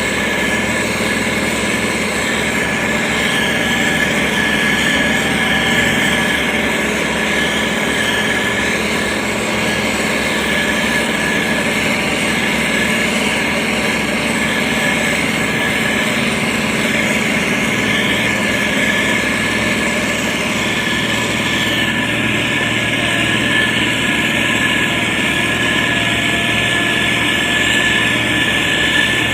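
Diesel engine of a heavy road-construction machine running steadily, with a constant high whine over it.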